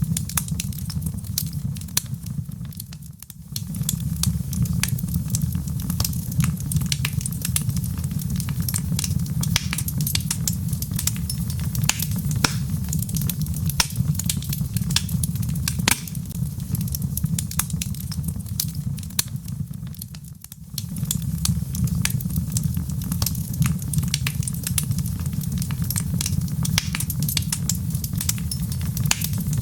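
Burning log fire crackling, with dense sharp pops and snaps over a steady low rumble. The sound dips briefly twice, about three seconds in and again about twenty seconds in.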